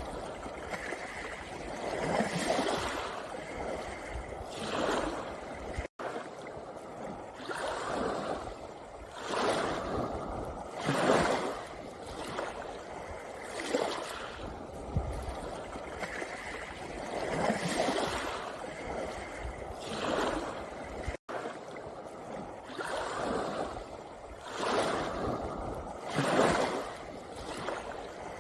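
Small sea waves washing onto a pebble beach, a surge of rushing water every two to three seconds, with two very brief dropouts in the sound.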